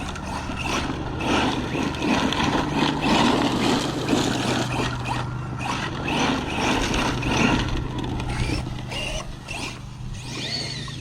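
Arrma Mojave 1/7-scale RC truck running on 6S: its brushless motor and drivetrain surging up and down as it drives over grass and rough ground, with the tyres tearing the surface.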